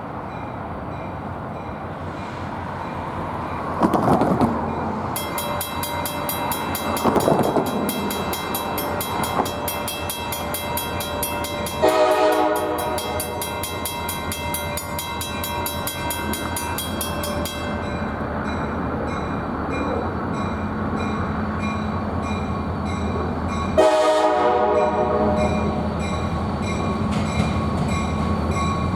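EMD SD40-2 diesel locomotive approaching with its engine running and its air horn sounding two long blasts, about twelve seconds in and again near the end.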